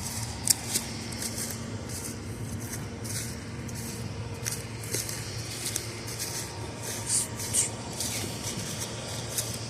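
Footsteps crunching and snapping over brush, stumps and debris on an overgrown railway bed, irregular crackles with a few sharper snaps, over a steady low hum.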